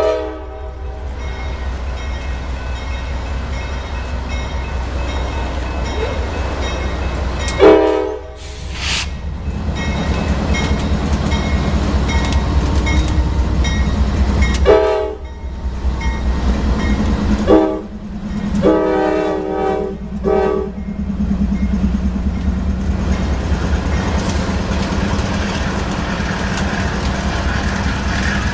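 Norfolk Southern diesel freight locomotives passing close by, engines running with a steady low drone and wheels on the rails. The lead unit's air horn sounds a long blast about 8 seconds in, then another about halfway through, followed by a quick run of short and long blasts a few seconds later.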